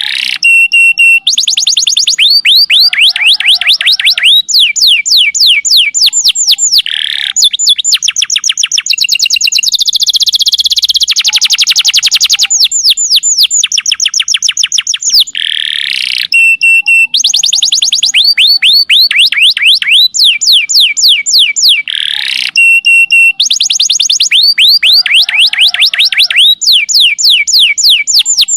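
Canary singing a loud, unbroken song of rapid high trills and repeated sweeping notes, tour after tour. The same sequence comes back every few seconds, as in a looped masteran (training) recording.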